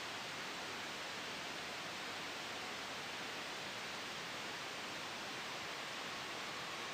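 Steady soft white noise: an even hiss, brightest in the upper range, with no changes.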